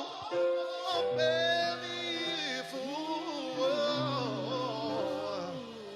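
Gospel worship song: a voice singing a flowing, melismatic line over held low accompaniment notes that come in about a second in.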